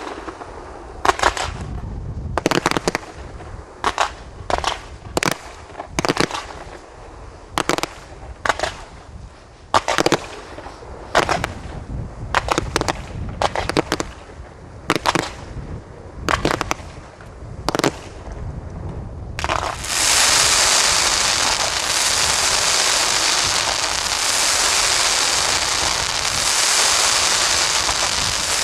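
Fireworks display: a string of sharp, separate bursts about once a second, then about two-thirds in a dense, continuous crackling takes over and holds to the end.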